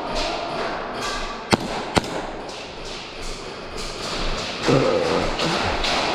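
Airsoft gunfire: a run of scattered sharp shots and BB hits, with two loud cracks about a second and a half and two seconds in.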